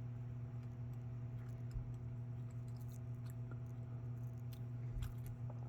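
Faint scattered clicks and ticks of small plastic model parts being handled as the trailer's wheel sets are worked, over a steady electrical hum.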